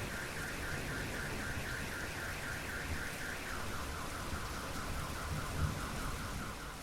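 A car alarm sounding through steady rain: a rapid warbling tone, about five cycles a second, that drops to a lower pitch about halfway through.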